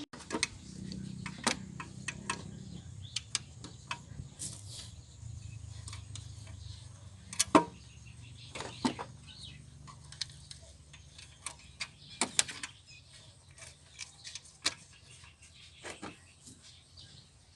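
Irregular sharp metallic clicks and knocks of hand tools working on engine parts during reassembly, with a faint low hum in the first half.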